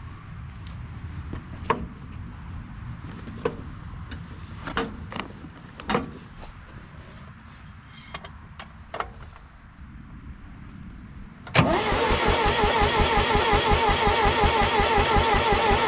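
Electric starter cranking the International 2400B tractor's engine over without it firing, a fast even churning with a whine, starting suddenly near the end and lasting about four seconds. Before it, a low rumble with scattered sharp clicks.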